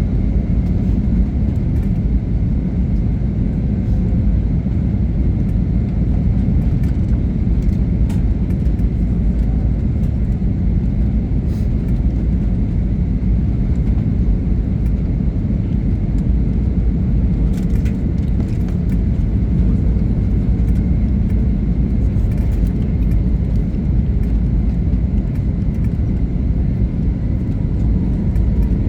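Steady low rumble of a jet airliner's engines and airflow heard inside the passenger cabin during the descent to landing.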